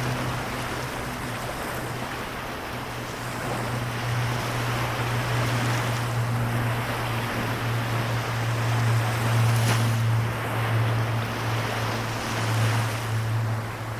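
Small sea waves washing against the shore of the Seto Inland Sea, the wash swelling and easing a couple of times. A steady low drone runs underneath throughout.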